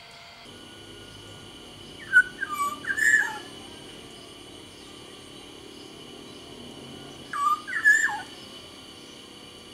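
Black-naped oriole (kepodang) singing two short phrases of fluted, whistled notes that bend up and down, about five seconds apart.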